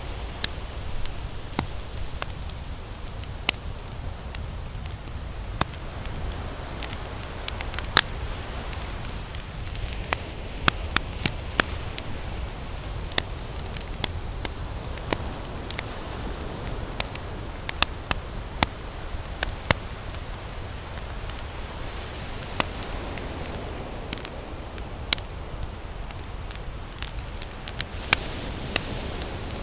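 Campfire crackling, with frequent irregular sharp pops and snaps of burning wood, over a steady low rumble and a wash of surf that swells and fades.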